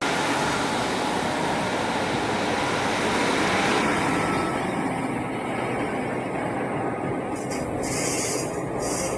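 A train running along the line through the station: a steady, loud rumble and rush of wheels on rails.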